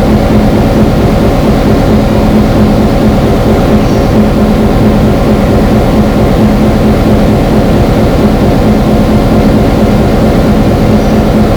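Diesel locomotive of an excursion train running loud and steady: a low rumble under a constant droning hum.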